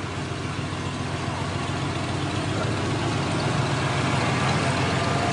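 A vehicle engine running steadily at low revs, slowly growing louder.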